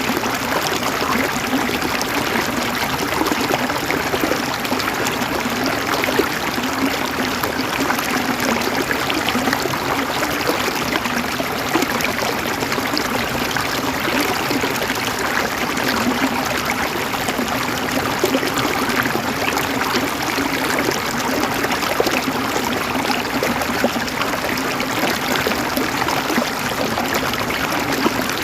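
River water running over stones: a steady babble of small splashes and gurgles that never lets up.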